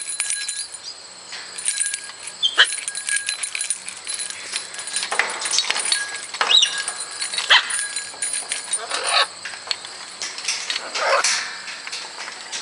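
Pet parrots squawking, a string of short, harsh calls scattered irregularly, some with a brief whistled edge.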